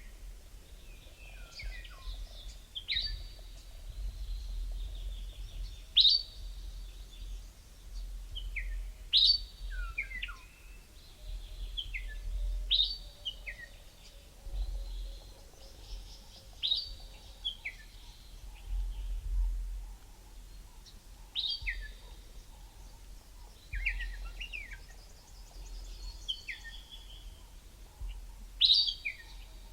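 Wild birds calling in bushveld. One bird repeats a loud, sharp call that drops quickly in pitch every three to four seconds, and other birds make softer chirps between. A low rumble runs underneath.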